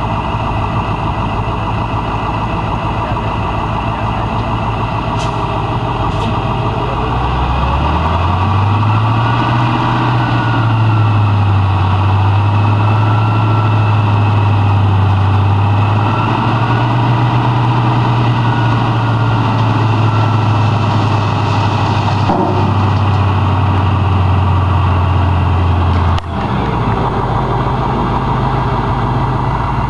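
Dump truck's diesel engine idling, then revved up about eight seconds in and held at higher speed while dumping its load of dirt. It drops abruptly back to idle with a sharp knock near the end.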